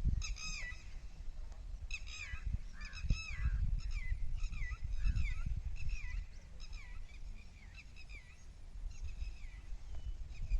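Birds calling over and over, short harsh honking calls that arch in pitch, coming several times a second in places. Wind rumbles on the microphone underneath.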